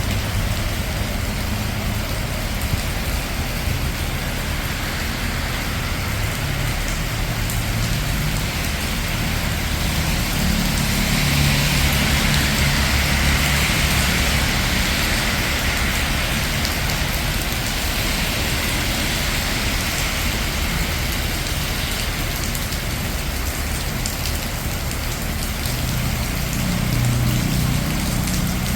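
Steady rain falling on a city street with the low rumble of traffic. Partway through, a vehicle's rumble and the hiss of tyres on wet road swell and fade as it goes by, and another low rumble comes near the end.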